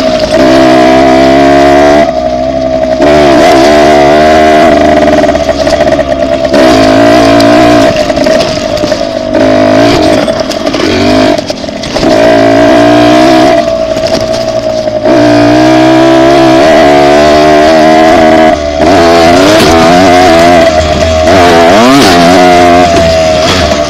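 Dirt bike engine under way, revving up and falling back again and again as the throttle is opened and closed.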